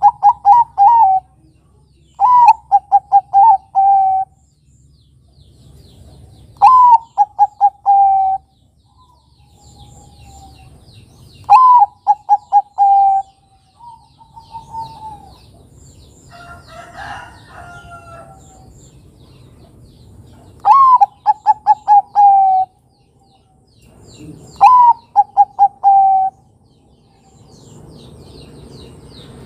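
Perkutut (zebra dove) cooing its song over and over, a phrase about every four seconds: a rising opening note, then a quick run of short, lower notes. Near the middle, a gap in the song holds a fainter, different bird call.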